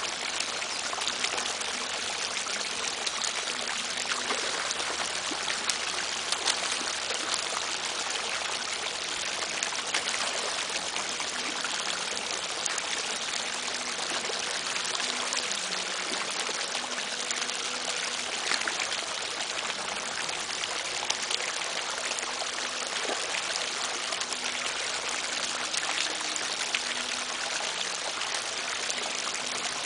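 Steady rush of running water, with faint scattered ticks and splashes.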